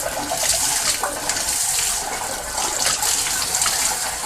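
Water spraying from a wand inside a sectional steam boiler, a steady hiss and splash as it flushes oil and sludge out of the boiler's water passages.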